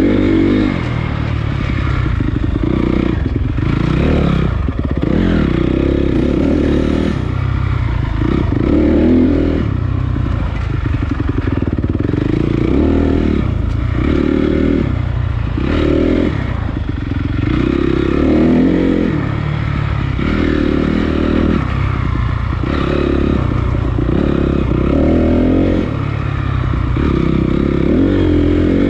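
Honda CRF250 dirt bike's single-cylinder four-stroke engine running under load, the throttle opening and closing every second or two. A steady hiss and some clatter ride along with it.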